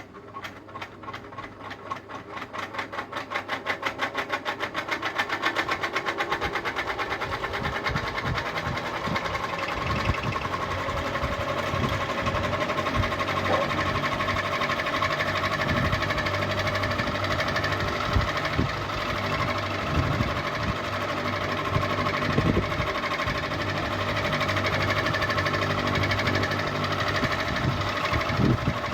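Ceiling fan starting up: a rhythmic whir that quickens over the first several seconds as the blades gain speed, then settles into a steady mechanical running hum.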